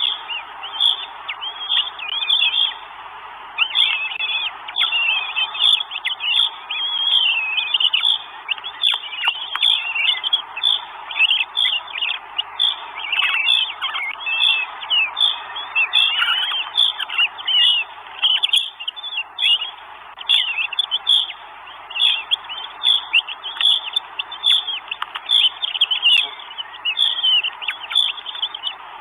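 Birds calling and singing, a dense, unbroken run of short chirps and whistles.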